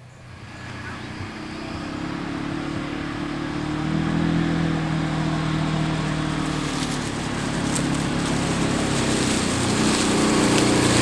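A motor vehicle's engine approaching and growing steadily louder, running at a fairly even pitch with small rises and falls.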